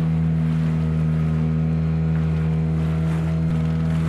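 Engine running at a steady speed, a constant low hum with no change in pitch.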